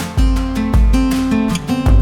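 Background music: strummed acoustic guitar with a steady beat and bass.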